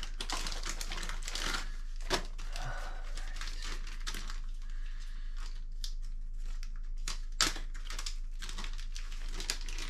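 Hands rustling and crinkling parts packaging, with scattered clicks and knocks of small parts being handled; the sharpest knocks come about two seconds in and again near seven and a half seconds.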